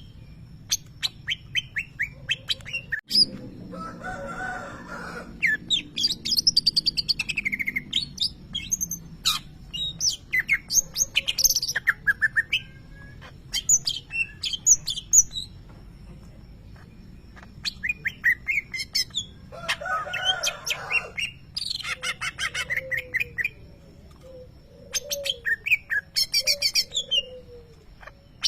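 Green leafbird (cucak ijo) singing in rapid runs of shrill chirps and trills, with its mimicked lovebird calls woven into the song. Two harsher, rasping bursts come about four seconds in and again about twenty seconds in, and low warbling notes come near the end.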